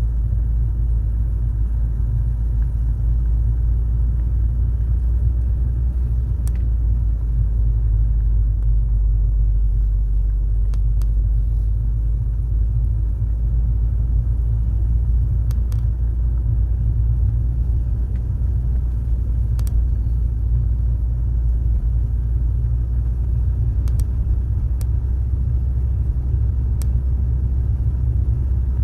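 Car driving at a steady pace: a constant low rumble of road and engine noise, with a few faint ticks now and then.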